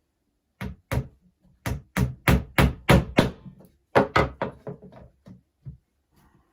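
Hammer blows on a wooden beehive frame being put together: about fifteen sharp knocks in quick series, the hardest and fastest in the middle, trailing off into lighter taps.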